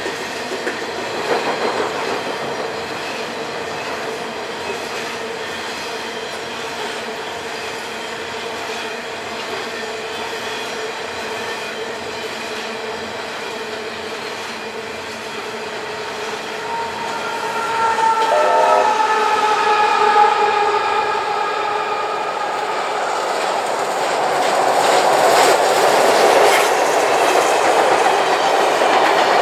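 Freight train of coal hopper wagons rolling over a steel girder bridge: a steady rumble and clatter of wheels. A train horn sounds for a few seconds about two-thirds through, and the wheel clatter grows louder near the end as passenger carriages cross.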